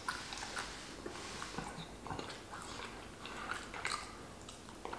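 A person chewing a mouthful of food with the mouth closed, close to the microphone: faint, irregular soft clicks of the mouth and food.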